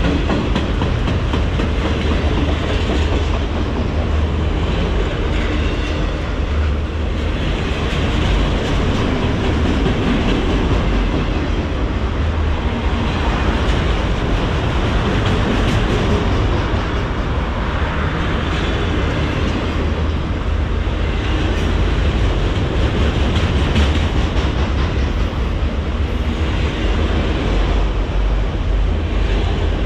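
Norfolk Southern freight cars rolling past: a continuous low rumble with the clickety-clack of steel wheels over the rail joints.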